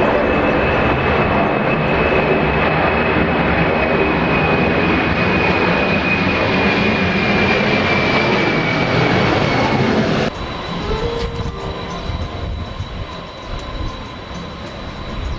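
Jet airliner engines running loud, a high whine over the roar slowly falling in pitch. About ten seconds in the sound cuts off abruptly to quieter engine noise with a steady high whistle.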